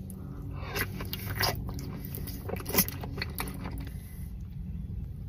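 Close-up chewing of a sushi roll dipped in yum yum sauce, with soft irregular clicks and squelches from the mouth.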